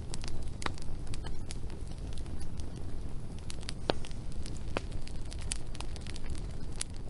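Wood fire crackling: irregular sharp pops and snaps, a few of them louder, over a steady low rumble of burning.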